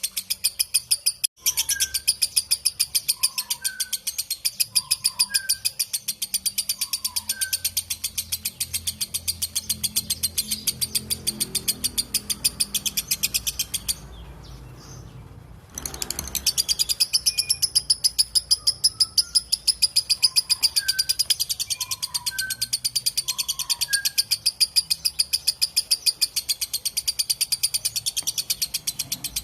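Lovebird ngekek: a long, rapid run of sharp, high chattering calls that breaks off for about two seconds midway, then resumes. Fainter short chirps sound behind it.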